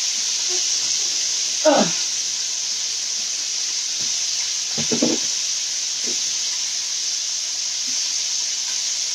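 Chicken tenders frying in hot oil in a skillet: a steady sizzle.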